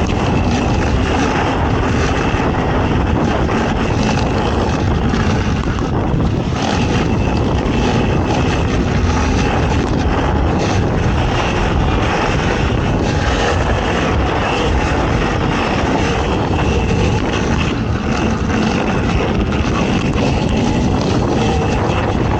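Racing ATV engine running hard and continuously, a loud steady drone whose pitch wanders slightly with the throttle.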